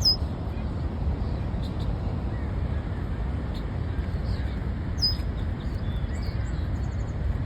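Birds calling, with two short, sharp, high calls that drop in pitch, one at the start and one about five seconds in, and faint chirps in between, over a steady low rumble.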